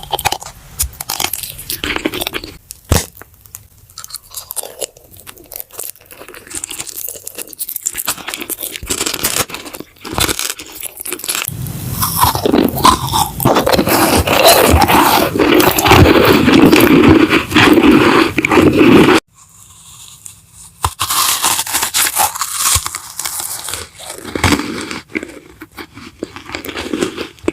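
Crunchy food being bitten and chewed close to the microphone, in irregular crackling crunches. There is a denser, louder stretch of chewing past the middle that cuts off suddenly, followed by a short pause before the crunching resumes.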